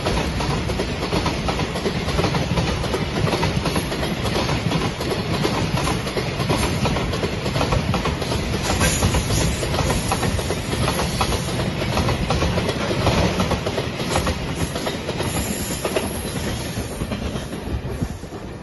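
Freight train of container flatcars rolling past close by, its wheels clattering steadily over the rail joints. The noise starts to fade near the end as the last wagon goes by.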